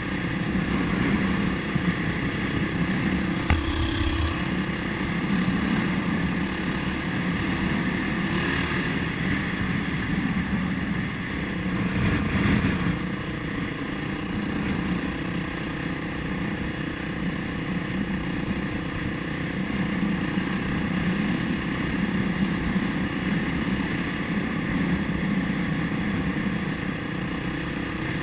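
Motorcycle engine running steadily while riding, with wind and road noise over the microphone.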